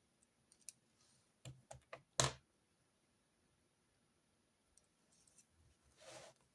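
Small clicks and taps of pens and stationery being handled on a desk during note-taking, several in quick succession with the loudest knock about two seconds in, then a short rustle near the end.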